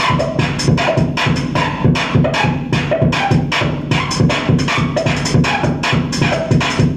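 Loud electronic music: a fast, relentless pulse of about five or six hits a second over a dense, heavy low end.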